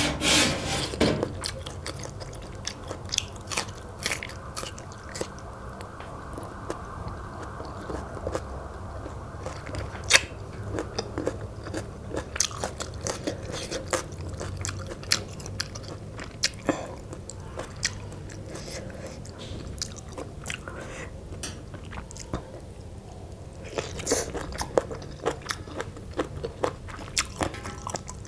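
Close-up mouth sounds of eating spicy Lao pounded noodle salad (tam khao poon): wet chewing with many sharp smacks and crunches. The loudest crunching is at the very start and again near the end.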